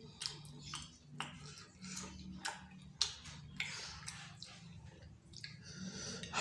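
Close-up eating sounds: irregular wet clicks, slurps and chewing as a bowl of bakso meatball soup is eaten.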